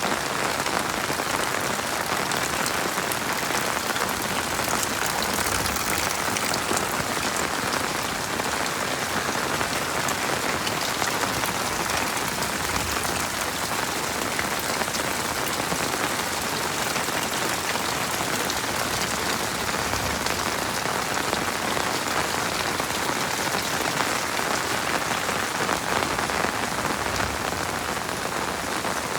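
Heavy rain falling steadily: a dense, even hiss with fine patter of individual drops, with no change in strength.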